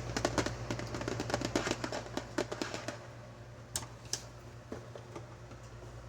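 Skincare packaging being handled and unwrapped: a dense run of crinkles and clicks for about three seconds, then two sharp high ticks, then sparse clicks.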